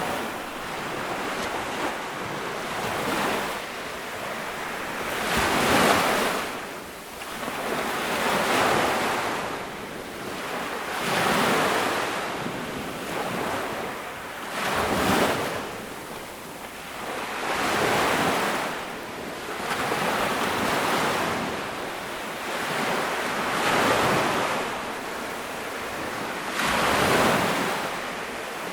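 Small ocean waves breaking and washing up a sandy beach, the surf swelling and falling back every two to three seconds, with a little wind on the microphone.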